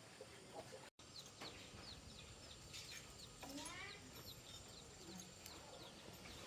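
Faint birdsong: a series of short, high chirps, about two a second, with a quick rising run of notes about three and a half seconds in.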